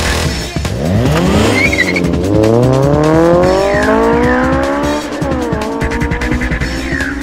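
Car engine accelerating hard, its pitch climbing steeply, dropping at a gear change about five seconds in and climbing again, with short tire squeals. Music with a steady beat plays under it.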